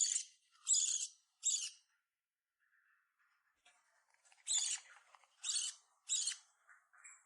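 Hand-reared parrot chick giving short, harsh begging squawks while it is hand-fed formula: three in quick succession, a pause of about two seconds, then three more.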